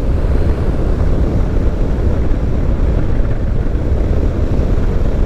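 Motorcycle riding at low speed: a steady low rumble mixed with wind rush on the rider's microphone.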